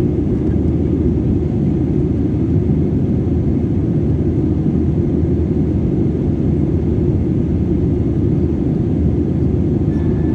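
Steady low rumble of an Airbus A320 airliner in flight, heard from inside the passenger cabin: engine and airflow noise.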